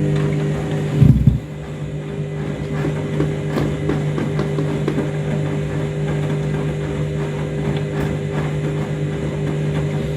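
Overloaded washing machine in its wash cycle: the drum motor hums steadily while the heavy, suds-laden load churns and tumbles. There is a heavy thud about a second in.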